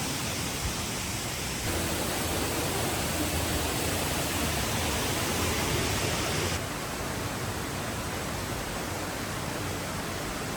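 Steady rushing roar of falling water from a waterfall. The noise shifts abruptly about two seconds in and drops a little in level and brightness about six and a half seconds in.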